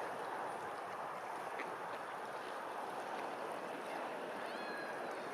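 A steady, even rushing noise, like flowing water, with a faint, brief whistle-like call about four and a half seconds in.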